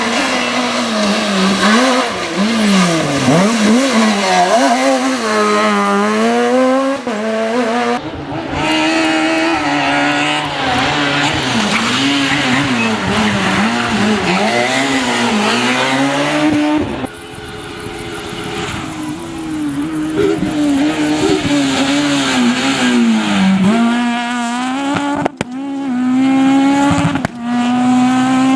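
S1600 rally cars' high-revving four-cylinder engines, the revs rising and dropping sharply through gear changes and lifts as each car drives a stage. The sound switches abruptly from one car to the next several times.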